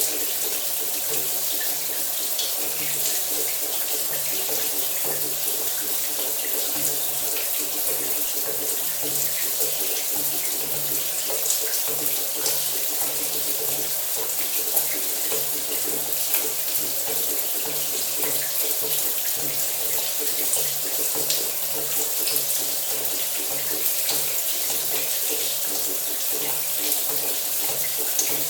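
Shower running steadily: water spraying and splashing, an even hiss with many small patters. A faint low hum runs under it.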